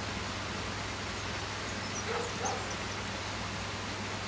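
Two brief animal calls about two seconds in, over a steady background hiss and low hum.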